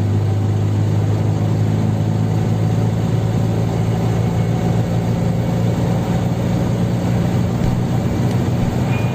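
Fiat 126p's small air-cooled two-cylinder engine running at a steady, even pitch while the car drives along.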